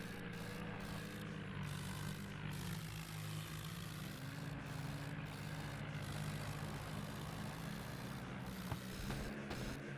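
Tractor engine running steadily, with a single sharp click near the end.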